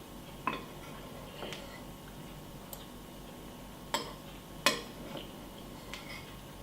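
A spoon clinking against a cereal bowl in a handful of short, sharp strikes, the two loudest about four and four and a half seconds in.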